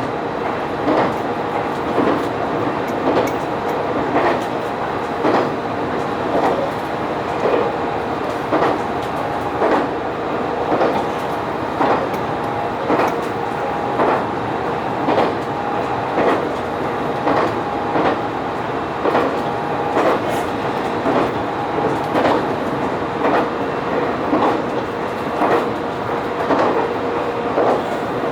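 A diesel railcar running along the line at steady speed. Its wheels click over rail joints about once a second, over a steady engine hum and running rumble.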